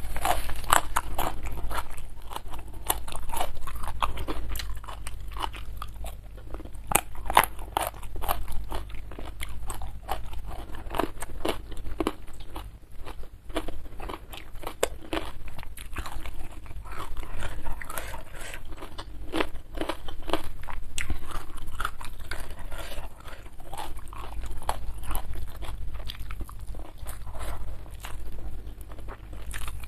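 A person chewing and crunching food close to a lapel microphone, with a steady run of sharp, crisp crunches from the mouth.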